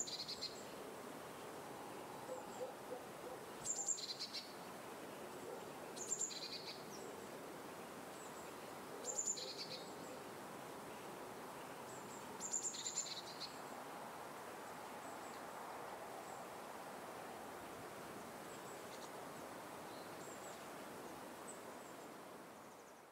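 Outdoor ambience with a bird repeating a short two-note call, a high note then a slightly lower one, five times about three seconds apart over a steady background hiss. After that only a few faint high chirps remain, and the sound fades out at the end.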